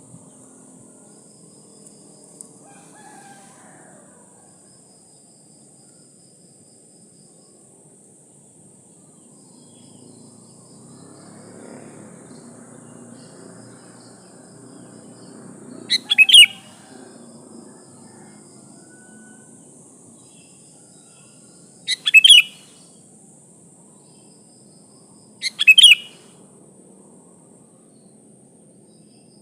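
A female sooty-headed bulbul (kutilang) gives three short, sharp calls, each a quick double note, about six and then four seconds apart: the call of a female in breeding condition summoning males. A steady high insect-like hiss runs underneath.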